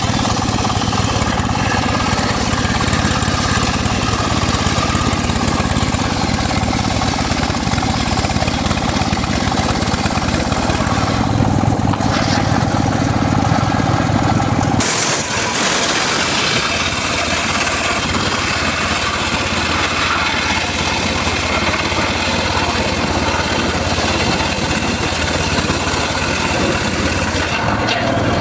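Engine-driven homemade circular saw running continuously at mahogany-cutting work. About halfway through, the sound changes abruptly: the low engine note drops and a bright high hiss comes in.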